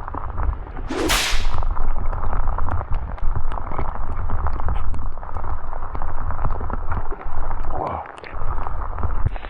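Rain pattering, with wind buffeting the microphone in a steady low rumble. About a second in comes a single sharp swish.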